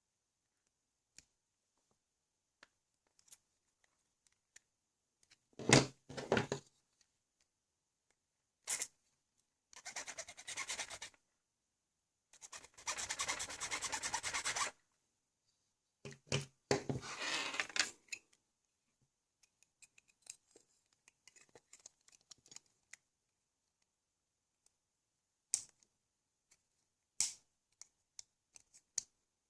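Hands working on a LEGO XL motor's small parts: a knock about six seconds in, then three bursts of scraping, the middle one longest with a fast even grain, and scattered small clicks near the end.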